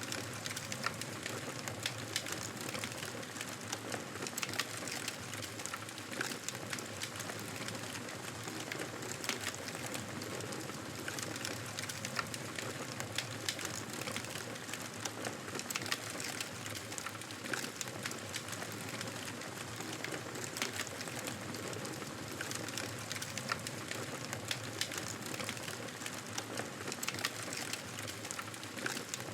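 Wood fire crackling steadily in a fireplace, a constant bed of noise sprinkled with many small sharp pops.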